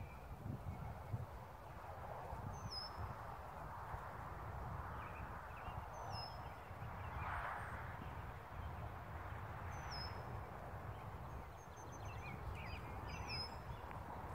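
A bird repeating a short, high call four times, about every three and a half seconds, with a few fainter chirps in between, over steady low outdoor noise.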